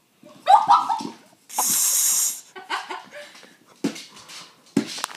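Dog sounds close to the microphone: a short high-pitched vocal sound about half a second in, then a loud breathy huff lasting nearly a second, then a few sharp clicks near the end.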